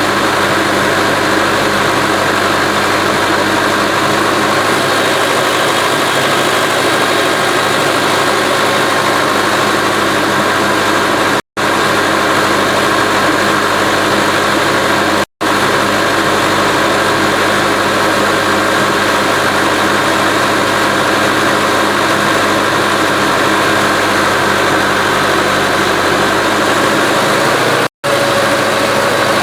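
Tractor engine running steadily under load while driving a vertical turbine pump, a constant loud mechanical hum. The sound drops out completely for an instant three times.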